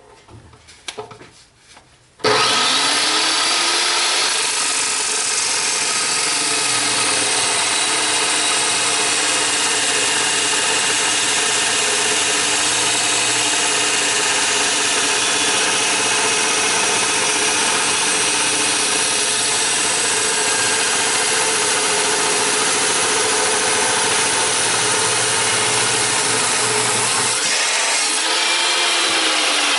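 A power tool's motor starts about two seconds in with a quick rise in pitch and then runs loudly and evenly, with a harsh steady hiss over it.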